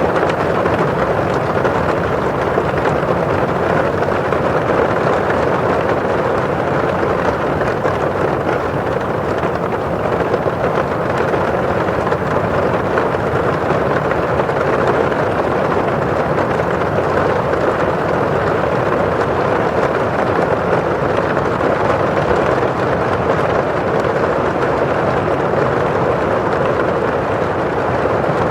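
Steady rain pattering on window glass with the hiss of rain outside, an even, unbroken wash of noise.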